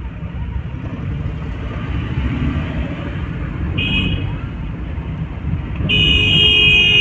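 Engine and road rumble of a car driving, heard from inside the car. A short car-horn toot about four seconds in, then a longer, louder horn blast from about six seconds in.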